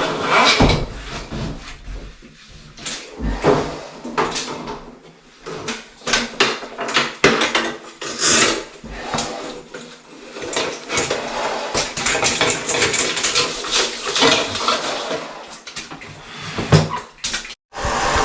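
Irregular metallic clattering, knocking and scraping of equipment being handled, with a brief dropout near the end.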